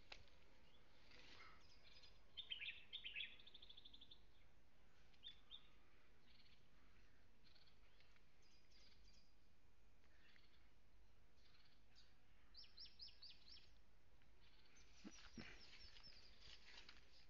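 Faint bird chirps: a few short, rapid chirping trills, the clearest about two seconds in and again near the end, over a low steady hiss.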